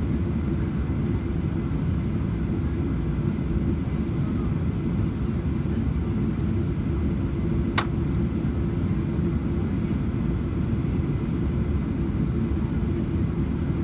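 Steady cabin rumble inside a Boeing 737-800 with its engines running, with one sharp click about eight seconds in.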